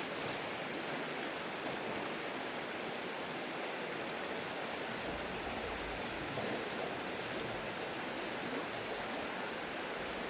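Steady rush of flowing river water. A quick run of four short high chirps comes in the first second.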